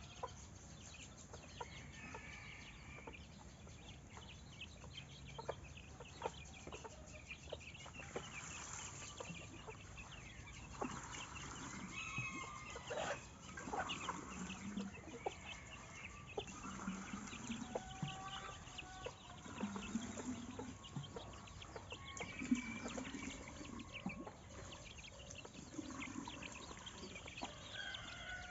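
Chickens clucking, with short calls coming on and off among scattered clicks.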